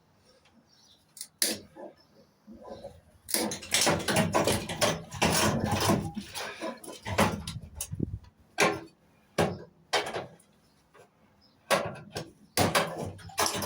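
Knocks, clicks and scraping clatter of metal parts and tools being handled while a microwave oven is taken apart, busiest in the first half, then a few separate sharp knocks.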